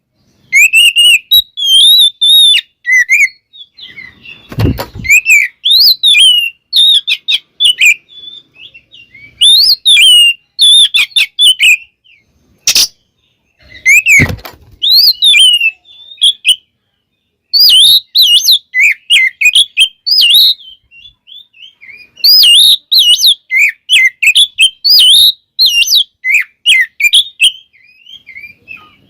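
Oriental magpie-robin (kacer) singing loudly in rapid, varied whistled and chattering phrases, in bursts with short pauses. Two dull thumps come about 5 and 14 seconds in, and a sharp click just before the second.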